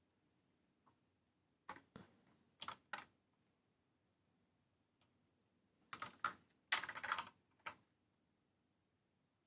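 Light clicks and taps of small model-kit parts being handled on a work surface, in two short clusters: four taps about two seconds in, then a quicker run of clicks around six to eight seconds in.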